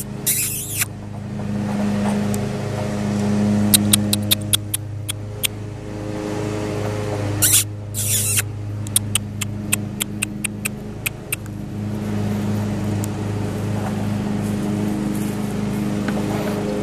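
A motor vehicle engine idling with a steady hum. Light ticks and crunches of small paws on loose gravel come in two clusters, a few seconds in and again past the middle, with a louder scuffing burst between them.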